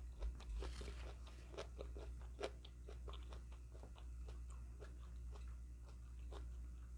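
Faint close-miked chewing and biting: small wet mouth clicks and light crunches, coming thickly for the first few seconds and then more sparsely, over a steady low hum.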